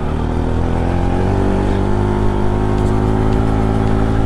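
Motorcycle engine running steadily while riding, its pitch rising a little about a second in and then holding.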